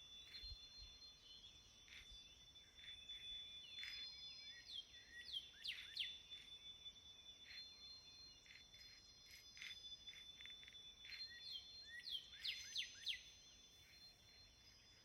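Faint wind chimes ringing, with long, high, steady tones that overlap and fade, and clusters of short falling chirps about four to six seconds in and again near the end.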